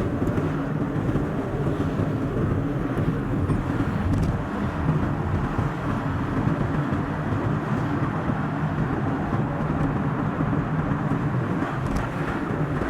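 Car driving along a road, with a steady mix of engine and tyre noise, sped up to double speed.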